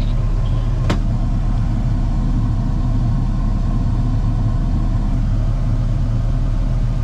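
Steady in-cab drone of a Ford F-150 pickup driving: low engine and road rumble, with a single sharp click about a second in.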